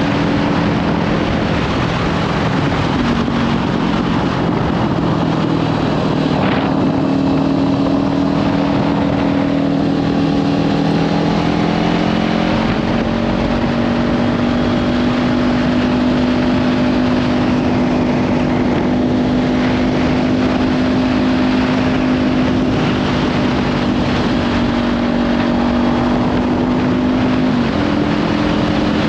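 Kawasaki Ninja 500's parallel-twin engine through a Leovince slip-on exhaust, running steadily while riding, under heavy wind noise on the microphone. The engine note drops slightly a few seconds in, shifts again near the middle, and steps up near the end.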